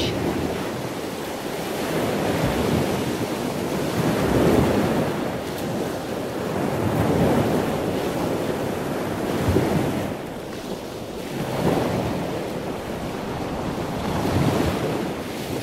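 Rushing surf-like water noise, swelling and easing about every two to three seconds, like waves washing in.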